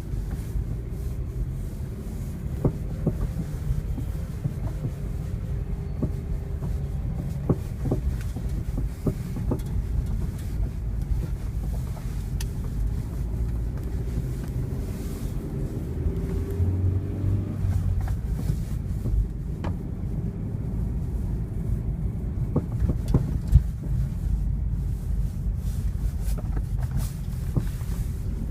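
A 1999 first-generation Honda CR-V driving, with steady low road rumble and scattered short rattles and knocks from the front end at irregular moments.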